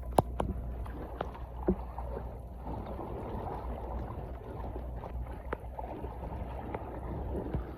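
Water sloshing and splashing, with a few sharp knocks or clicks scattered through it.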